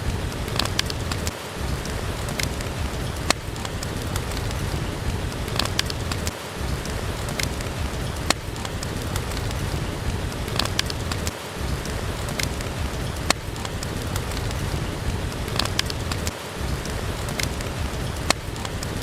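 Steady rain hiss mixed with the sharp, irregular pops of a crackling wood fire. About every five seconds the low rumble dips briefly.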